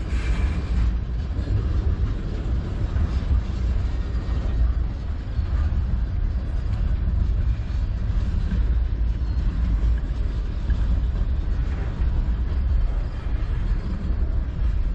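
Freight train's tank cars and covered hoppers rolling slowly past on the rails as the train pulls into the yard, a steady low rumble of wheels and cars.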